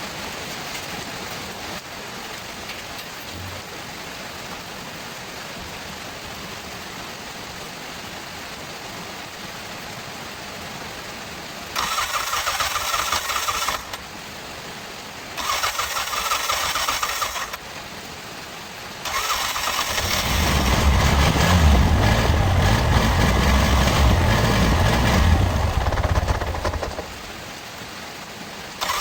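Bajaj RE 205 auto rickshaw's freshly repaired electric starter motor cranking the engine in two short bursts of about two seconds each, then cranking again until the engine catches about twenty seconds in and runs for some seven seconds before it stops. The repaired starter now turns the engine over.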